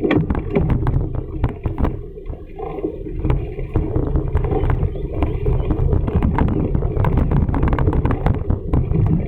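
Wind buffeting the microphone of a camera on a moving bicycle, a steady low rumble, with frequent small clicks and rattles from the bicycle as it is ridden.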